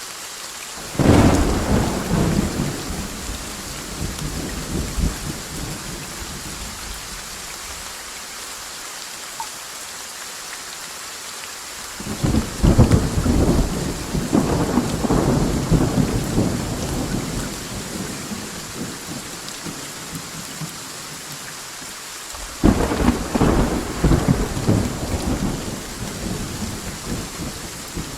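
Steady rain hissing, with three rolls of thunder: one about a second in, one near the middle and one near the end, each starting with a sharp crack and rumbling away over several seconds.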